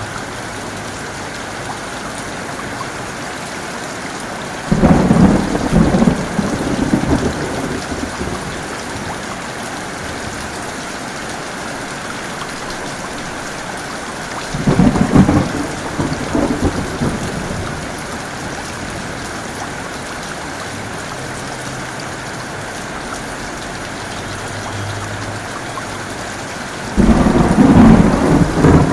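Heavy rain falling steadily, with three sudden claps of thunder that rumble and fade over a few seconds each: about five seconds in, about fifteen seconds in, and near the end.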